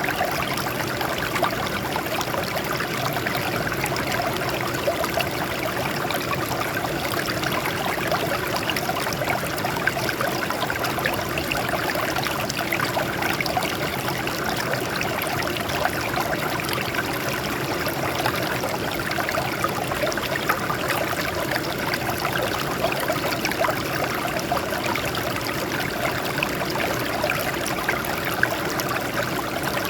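Water flowing and trickling over rocks: a steady, even splashing and babbling.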